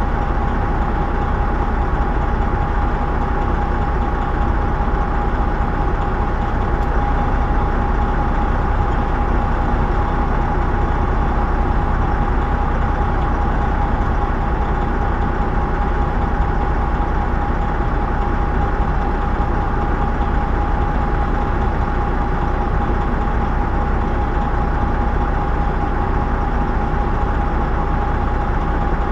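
Semi truck's diesel engine idling steadily, a constant low rumble with a steady hum running over it.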